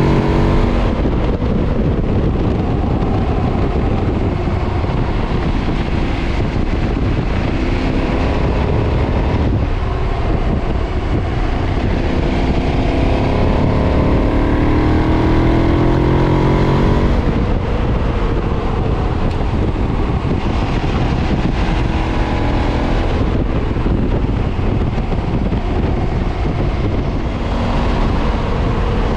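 2013 KTM 990's V-twin engine through its stock exhaust under hard throttle, its pitch rising in several pulls between gear changes. Steady wind rush runs underneath.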